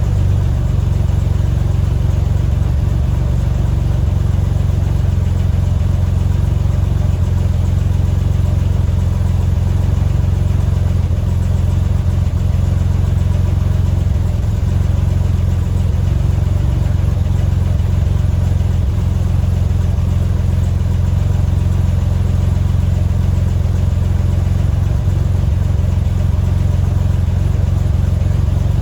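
1985 Chevy S10's carbureted 2.8-litre V6 idling steadily, exhausting through a Borla muffler with no tailpipe after it.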